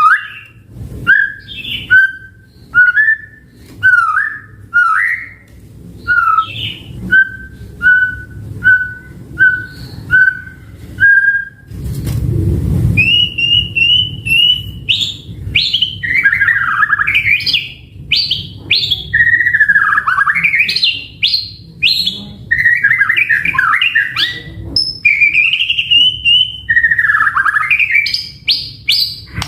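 White-rumped shama singing: a run of short, evenly repeated whistled notes, a brief harsh rasp about halfway through, then a rich, varied song phrase of loud whistles sweeping up and down.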